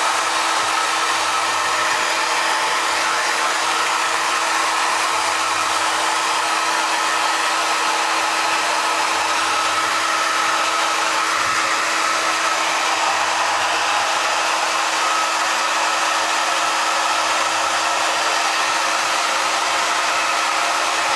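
Handheld hair dryer running steadily: an even blowing hiss with a constant hum underneath.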